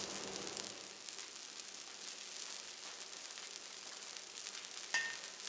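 Cornmeal arepas frying in butter on an electric griddle, a faint, steady crackling sizzle. A brief tap about five seconds in.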